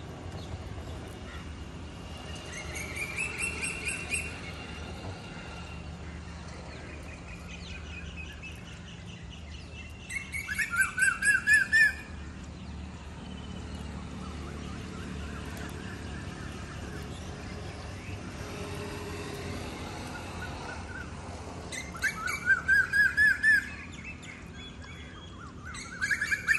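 A bird calling in loud bursts of quick, rising notes, each burst lasting one to two seconds. There are four bursts: a fainter one near the start, then one around the middle, and two near the end. Under them is a low, steady background noise.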